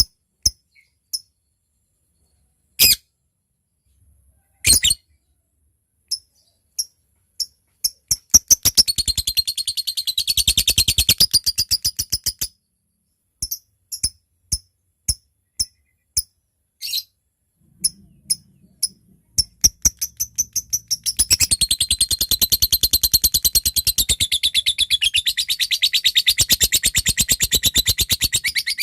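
Lovebird calling with scattered sharp single ticks ("ngetik"). About a third of the way in they run into a rapid chattering trill for a few seconds, then break back into ticks, and in the last third a long unbroken chattering trill ("ngekek panjang") sets in.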